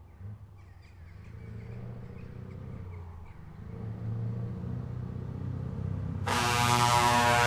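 Heavy truck's diesel engine running and growing louder as it approaches. About six seconds in, a loud air horn sounds suddenly.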